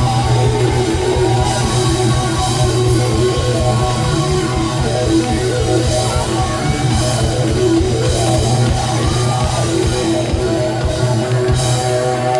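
Live rock band playing an instrumental passage with electric guitars and drum kit, no singing.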